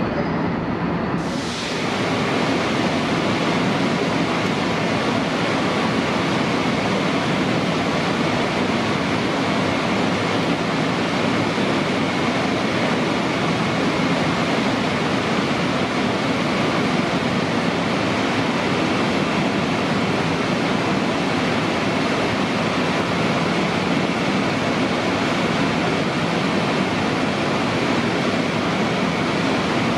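Steady, even rushing noise of a Long Island Rail Road electric multiple-unit train standing at an underground platform with its doors open, its ventilation and air-conditioning fans running.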